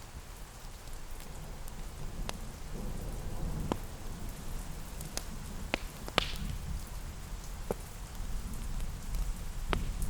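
Steady rain with a low rumble underneath, and about seven sharp pops and crackles of a wood fire scattered through it, the loudest about six seconds in.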